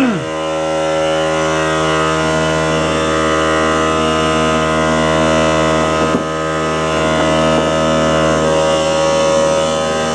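Small portable electric air compressor running steadily, pumping up its tank with a loud, even motor hum.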